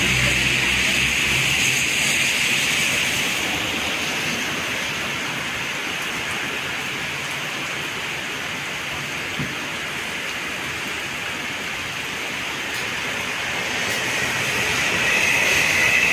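Heavy rain falling in a steady, even hiss. Vehicles swish past on the wet road, one near the start and another coming closer near the end.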